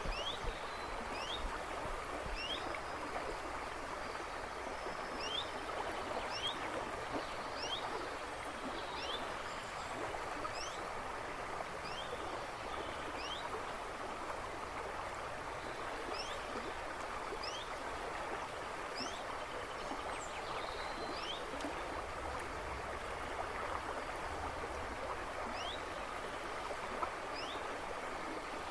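A river rushing and babbling steadily over stones, with birds chirping in the woods behind it: short rising chirps repeat about once a second throughout.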